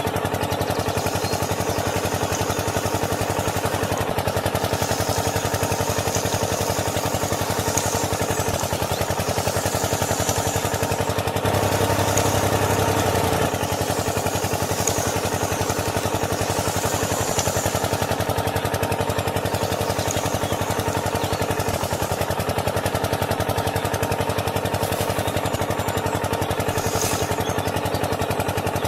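An engine running steadily with a fast, even chatter, growing a little louder and fuller for a couple of seconds around the middle.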